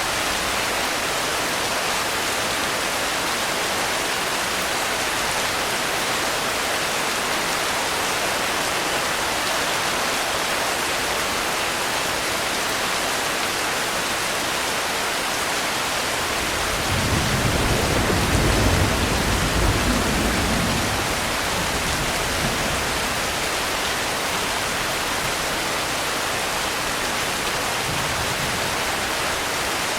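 Steady rain falling, an even dense hiss. A little past the middle, a low rumble swells for a few seconds and fades back into the rain.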